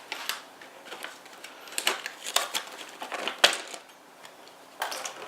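Clicks, taps and light knocks of small plastic parts being handled, a drone camera and its card reader being opened and checked for a memory card, with the sharpest knock about three and a half seconds in.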